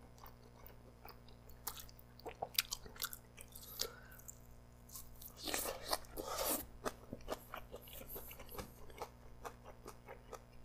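Close-miked chewing of a grilled chicken skewer bite: soft wet clicks and smacks of the mouth, with a breathy puff through pursed lips a little past halfway.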